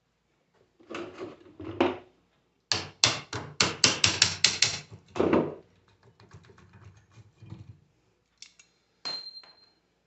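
Hammer blows on the metal parts of a 24-volt truck alternator during disassembly for a bearing change. There are a couple of knocks, then a quick run of about a dozen taps at roughly five a second and a heavier blow. Near the end comes a single ringing metal strike.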